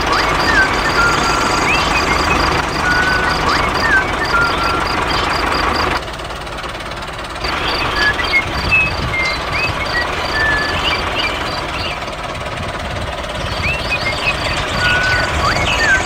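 A rapid high-pitched electronic beep repeating several times a second, pausing twice, with short rising chirps over a steady noisy background.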